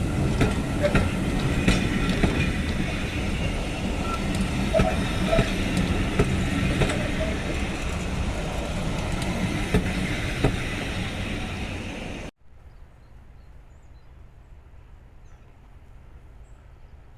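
Train running on the line, a steady rumble with scattered clicks and knocks. It cuts off suddenly about twelve seconds in, leaving a much quieter low hum.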